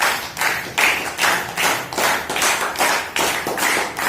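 Hands clapping in a steady rhythm, about two to three claps a second, as praise.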